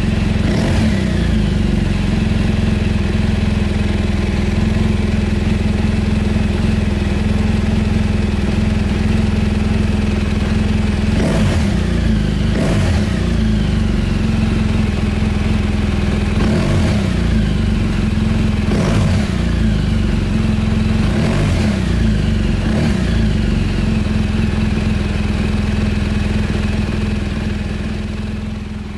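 2016 BMW R1200GS Adventure's boxer-twin engine idling while the throttle is blipped several times, each rev dropping back to idle. It fades out near the end.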